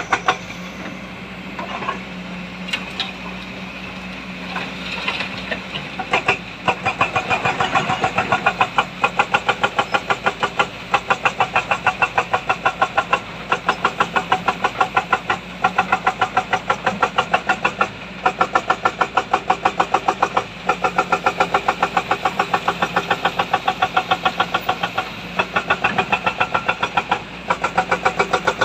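Heavy diesel engine of a dump truck or excavator running steadily, with a fast, even pulsing of about five beats a second.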